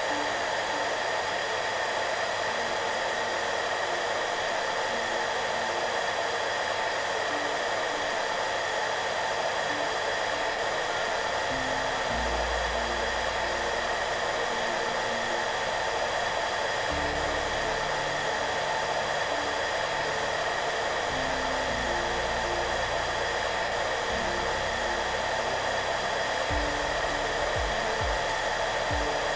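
Hair dryer running steadily, a constant rushing whir with a hum in it. Soft background music plays faintly underneath, with low notes joining about twelve seconds in.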